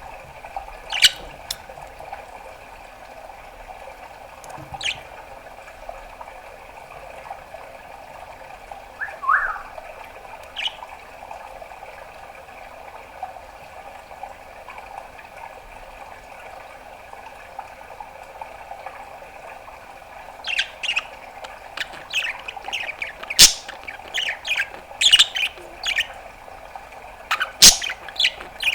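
Pet budgerigar chirping and clicking: a few isolated short calls in the first half, then a quick run of chirps and clicks in the last third, over a steady background hum.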